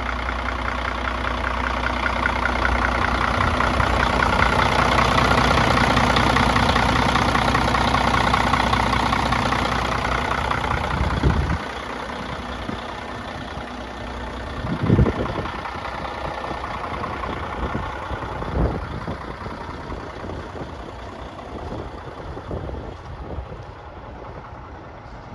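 Diesel engine of a 2005 Freightliner truck idling steadily. Its note stops abruptly about eleven seconds in, and two thumps follow a few seconds apart.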